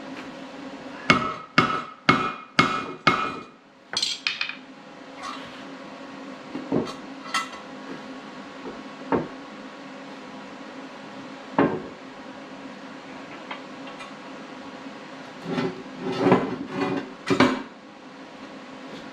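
Hammer striking steel: a run of five sharp blows about a second in, a few scattered knocks, then another quick cluster near the end. A steady low hum runs underneath.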